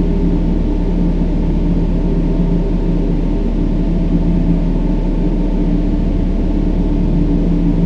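Brown noise: a steady, deep hiss weighted toward the low end, with a faint steady low hum of tones underneath and no change throughout.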